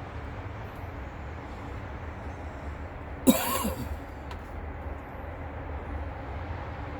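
Steady low outdoor rumble, much like distant traffic. About three seconds in, one sudden loud short sound cuts through it, sliding up and down in pitch for about half a second.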